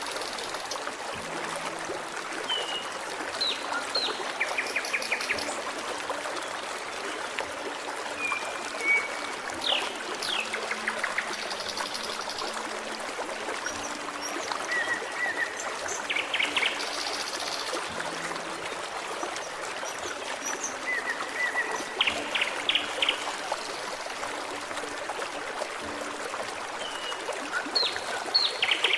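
Forest stream trickling and babbling steadily, with songbirds calling over it: short whistled notes, quick chirps and rapid trills scattered throughout.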